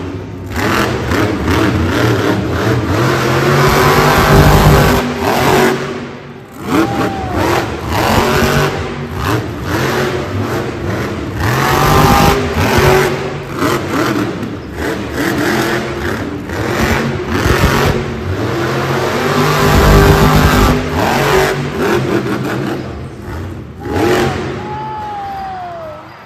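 Monster truck engine revving hard in repeated surges, the pitch climbing and falling over and over.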